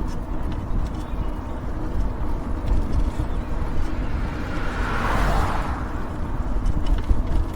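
Steady wind and road rumble from riding an e-bike, with a passing car's tyre noise swelling and fading about five seconds in.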